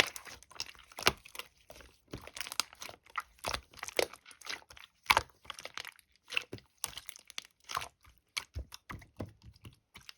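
Clear slime being worked by hand, giving irregular sticky clicks and crackles.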